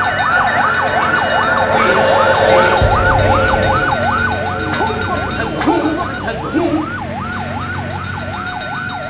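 An emergency-vehicle siren in a fast yelp, its pitch sweeping up and down about three times a second, with a low rumble joining about three seconds in.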